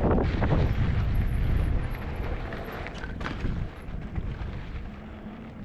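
Wind buffeting the microphone on a moving e-bike on a dirt trail, loud at first and easing after about two seconds, with a couple of sharp knocks about three seconds in.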